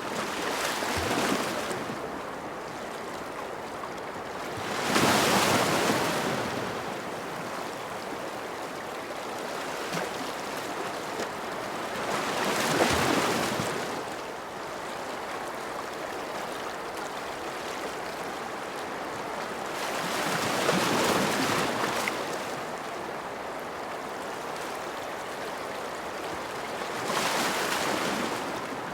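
Ocean surf washing steadily, with a wave breaking and swelling about every seven to eight seconds, four times.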